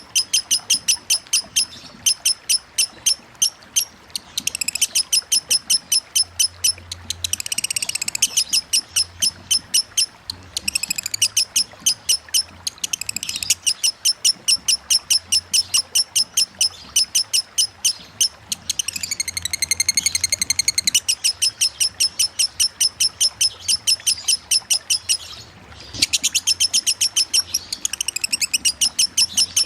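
Lovebird singing a long, unbroken ngekek trill in the 'konslet' style: rapid, evenly repeated high chirps, several a second, with a brief pause about 25 seconds in.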